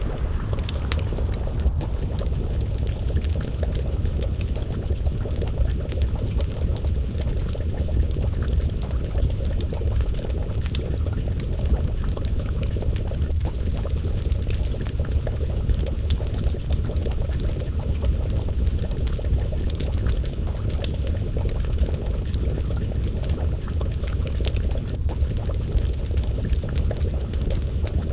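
Crackling wood fire with frequent small pops, over a steady low rumble and the bubbling of a pot of stew simmering on the flames.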